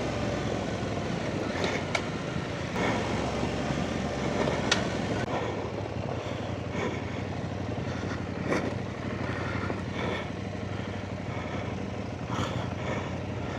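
Off-road motorcycle engine running steadily at low revs while riding, with scattered sharp knocks from the bike working over rough ground.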